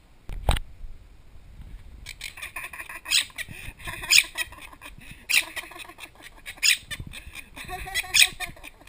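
Quaker parrot (monk parakeet) squawking and chattering in a string of short, sharp calls, after a single thump about half a second in.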